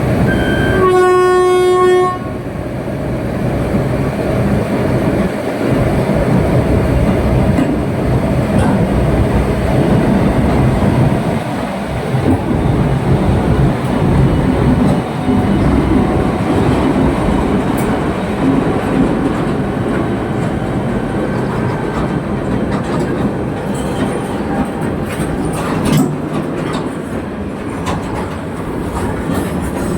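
WAG-9 electric locomotive's horn gives one blast about a second long near the start. The train then runs on with a steady loud rumble and the clicking of wheels over rail joints.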